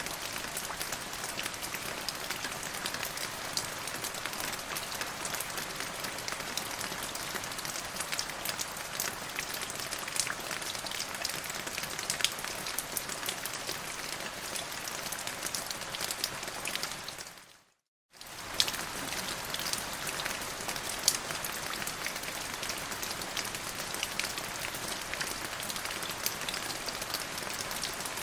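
Steady rain falling, an even hiss dotted with the ticks of single drops. It fades out to silence for a moment about three-fifths of the way through, then comes straight back.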